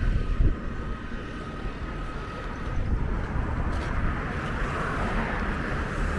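Steady low rumble of outdoor background noise, with a brief louder thump about half a second in.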